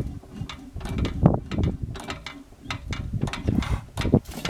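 1918 5 hp Monitor hit-and-miss engine running, its valve gear and governor clicking and knocking unevenly between firing strokes. A little rattle comes from a box whose hooks are left undone, shaken when the engine gets a good hard hit.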